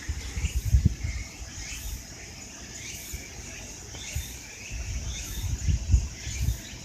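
Insects shrilling steadily, with repeated short bird chirps, over low rumbling thumps on the microphone that come in two spells, near the start and again about five seconds in.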